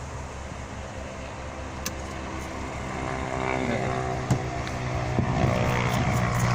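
Heater blower fan of a 1986 Ford F-250 running with a steady hum and whoosh of air, growing louder through the second half as it speeds up.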